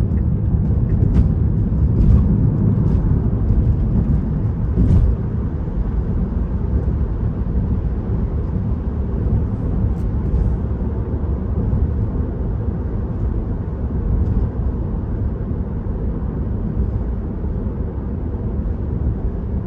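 Steady low road and tyre rumble heard inside the cabin of a Tesla electric car driving along, with a few faint clicks in the first five seconds.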